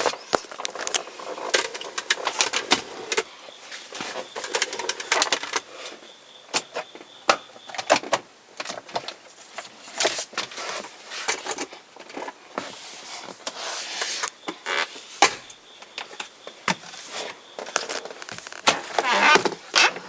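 Irregular clicks, taps and knocks of hands handling things inside a car's cabin, with a faint high steady tone for a couple of seconds midway.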